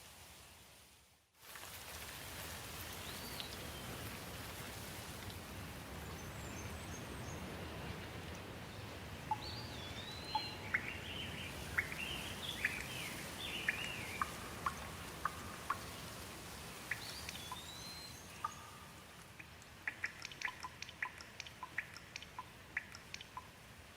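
Steady rain hiss with birds calling over it: a few curving whistled notes and a spell of quick chirps in the middle. Near the end comes a run of sharp short ticks. The sound cuts out briefly about a second in.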